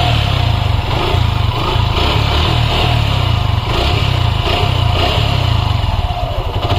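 Suzuki Gixxer SF's single-cylinder engine running steadily, just after its timing chain tensioner was reset so that it takes up the slack in the timing chain, which had caused an engine noise.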